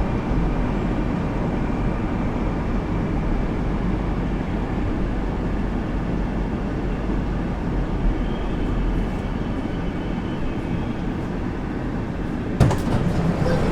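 Inside a Moscow Metro 81-765 «Moskva» train car: a steady low rumble and hum. A sharp knock comes about twelve and a half seconds in, and the sound grows louder after it.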